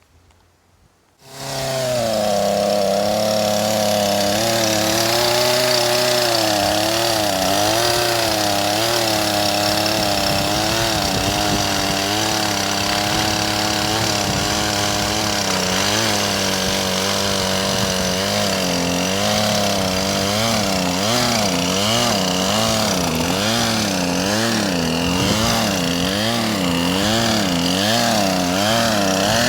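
Poulan Pro chainsaw's two-stroke engine comes in about a second in and keeps running loud and steady, its pitch wavering up and down, more strongly in the second half. The chain brake is stuck on.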